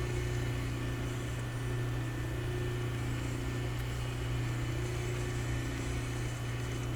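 Steady low electrical machine hum in a machine shop, even throughout, with no welding arc or cutting heard.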